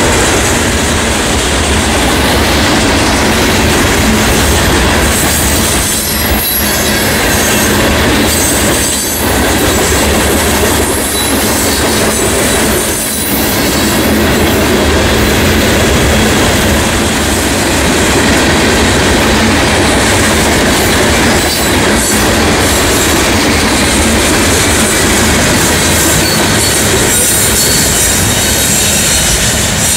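Freight train of open-top hopper cars rolling past close by: a loud, steady rumble of steel wheels on rail with rhythmic clickety-clack from the rail joints and a thin squeal from the wheels at times.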